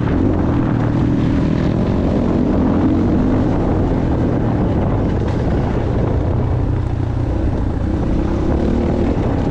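Motocross bike engine running hard around a track, revs rising and falling with gear changes and throttle, with a dip in revs around the middle.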